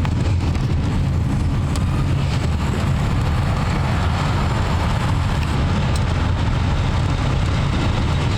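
Car driving at speed heard from inside the cabin: a steady low road and engine rumble with tyre hiss.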